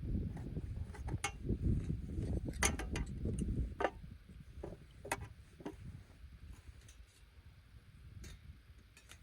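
Irregular sharp clicks and taps over a low, fluctuating rumble that dies down about halfway through.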